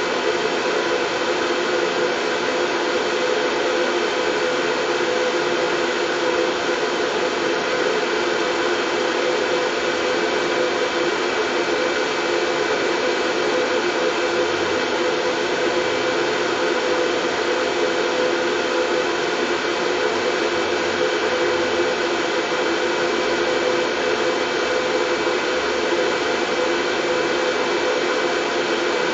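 Steady white noise for soothing a baby to sleep: an even, unchanging hiss with faint steady tones running through it, like a machine's whoosh.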